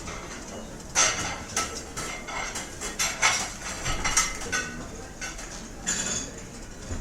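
Restaurant ambience: cutlery and dishes clinking and clattering over a low background murmur, with a cluster of sharp clinks through the middle, the loudest about a second in.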